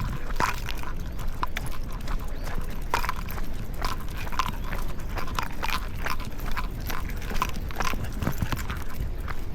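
Footsteps and dogs' paws on pavement: irregular light taps, a few a second, over a low steady rumble.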